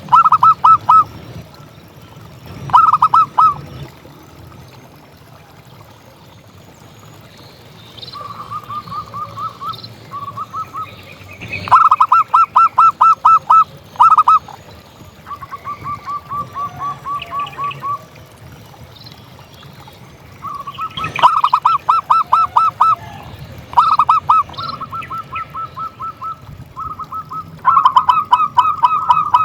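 Zebra dove (perkutut) calling: repeated runs of rapid staccato notes, some loud and some softer, coming every few seconds with short pauses between them.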